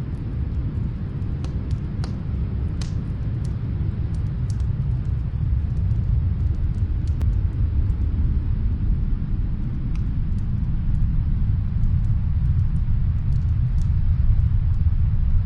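Snowstorm wind makes a steady low rumble that swells slightly louder. Faint, scattered crackles and pops of a wood fire come through it.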